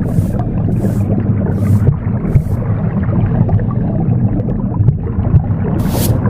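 Broom bristles sweeping in short hissing strokes: four quick strokes in the first two and a half seconds, a pause, then one more near the end. Under them runs a steady low rumbling whoosh of recorded womb sound.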